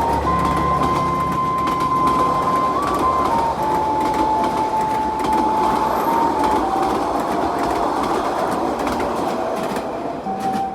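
D19E diesel-electric locomotive hauling a passenger train past. The engine drone fades after about seven seconds while the cars roll by with wheel clatter. A slow, thin melody of background music plays over it.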